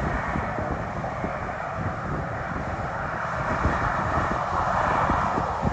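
Jet airliner engine noise, a continuous rushing sound that swells toward the end, heard from beside the runway.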